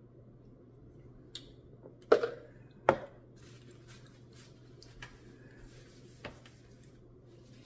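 Spoon knocking and scraping against a Dairy Queen Blizzard cup as ice cream is scooped: two sharp knocks about two and three seconds in, then a few lighter taps, over a steady low hum.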